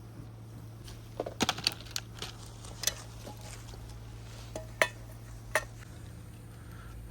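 Cooking utensils and cookware clinking: a quick flurry of clinks about a second in, then a few single clinks spaced out.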